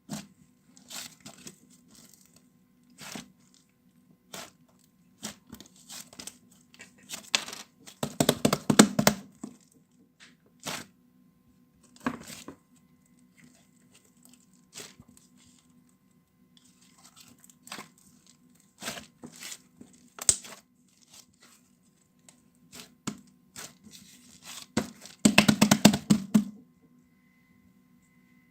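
Intermittent crackling and crinkling handling noises in short scattered bursts, with two longer, louder spells of rustling crackle, over a faint steady low hum.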